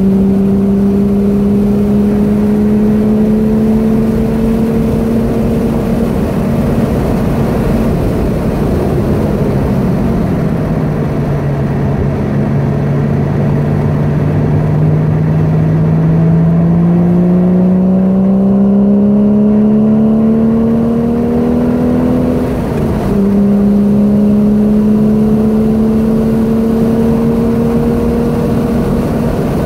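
Porsche 981 Boxster S's mid-mounted flat-six heard from inside the cabin on a track lap. The engine note sags as the car slows for a corner, then climbs steadily as it accelerates out onto the straight. About 23 seconds in, an upshift briefly cuts the sound and drops the pitch before it starts climbing again.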